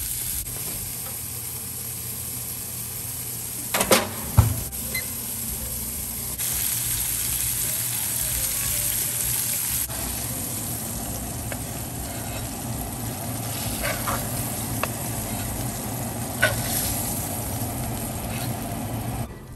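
Beef patties sizzling in a hot cast iron skillet. A few sharp clacks of a metal spatula against the pan cut through it, the loudest about four seconds in and several more in the second half, as the patties are lifted out.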